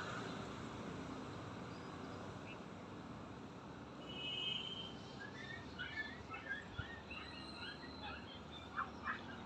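Birds chirping over a steady background hiss: a brief whistled note about four seconds in, then a run of many short, quick chirps through the second half, with two louder calls near the end.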